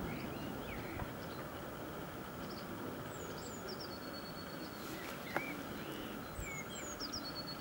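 Songbird singing a repeated phrase about every three seconds: a couple of falling high notes followed by a long, even high note. Underneath, a faint steady rumble.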